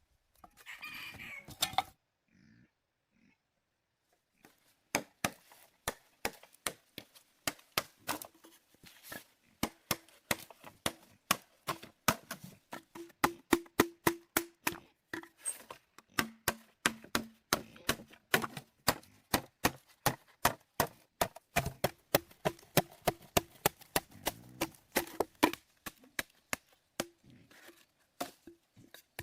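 A long run of sharp knocks, about two to three a second, starting about five seconds in, after a brief rustle near the start.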